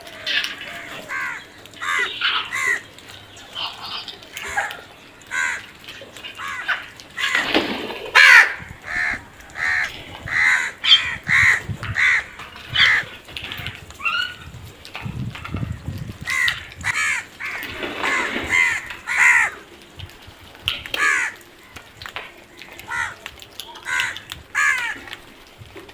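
Crows cawing over and over, harsh calls in runs, with an even string of about two caws a second near the middle.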